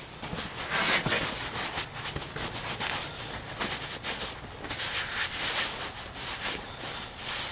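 Irregular rubbing, rustling and scraping handling noises close by, coming in uneven bursts, busiest about five to six seconds in.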